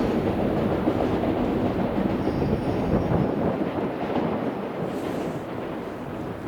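Sanyo Shinkansen train running past the platform: a steady rumbling noise that slowly fades.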